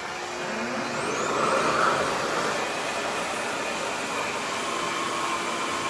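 Revair reverse-air hair dryer's suction motor winding up with a rising whine over the first two seconds, then running steadily with a loud rush of air.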